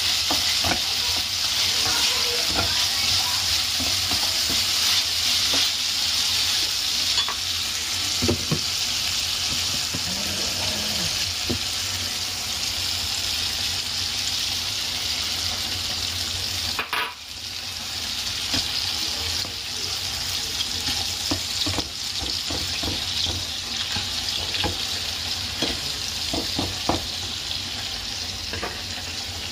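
Diced chicken breast sizzling in oil in a nonstick frying pan, with a spatula scraping and tapping against the pan as it is stirred. The sizzle cuts out briefly a little past halfway, then carries on.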